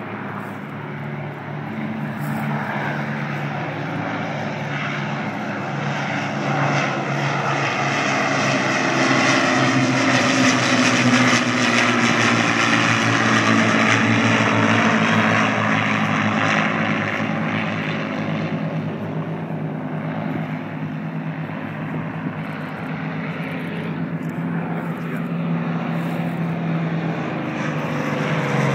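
Piston-engined Second World War propeller aircraft taking off, their engines running at high power. The sound grows louder, peaks about halfway through with the pitch dropping as the aircraft pass, then fades.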